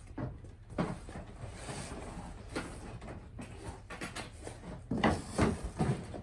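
Objects being handled, rummaged through and set down: scattered knocks and clatters, with a cluster of louder ones near the end.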